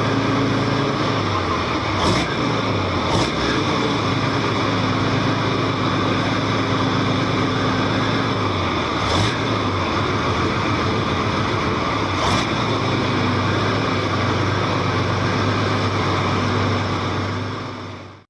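A large motorcycle engine running steadily, its pitch dipping briefly twice before recovering, then fading out near the end.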